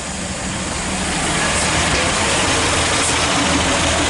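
A train running on the rails, its noise building over the first couple of seconds and then holding steady, with a low hum underneath.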